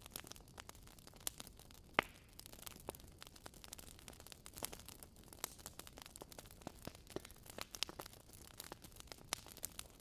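Wood fire crackling in a fireplace: a dense run of small irregular pops and snaps, with one sharper pop about two seconds in.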